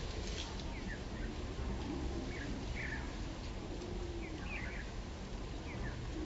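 Small birds chirping: short, quick, falling chirps repeated every second or so, over a steady low background rumble.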